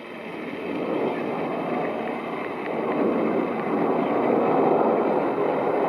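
Jet noise from a Boeing KC-767 tanker-transport's twin turbofan engines on landing approach, a steady rushing sound growing louder.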